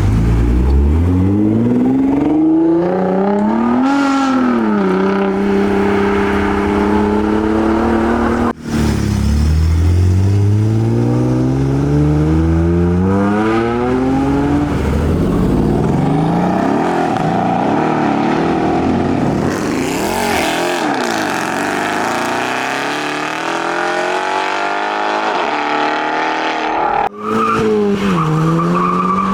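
High-performance car engines accelerating hard away, one car after another: the exhaust note climbs steeply in pitch, drops at a gear change and climbs again, with a car passing by in the middle. The sound breaks off abruptly twice as one car gives way to the next.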